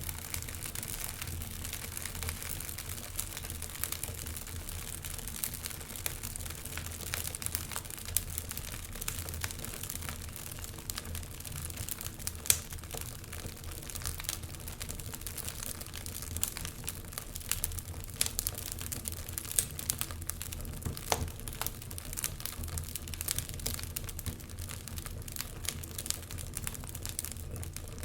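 Wood fire burning in a fireplace: logs crackling and popping steadily with many small snaps, one louder pop about twelve seconds in, over a low rumble of the flames.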